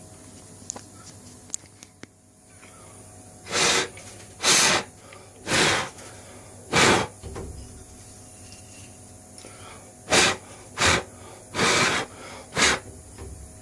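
Eight short blasts of hissing air in two groups of four, each about half a second long, blowing swarf off the milled part. There are a few light clicks before the first blast.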